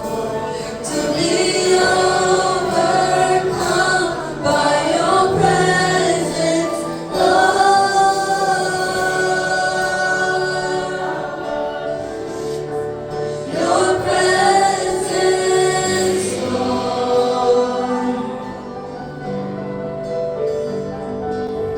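A choir singing a gospel worship song with instrumental backing, in long held notes.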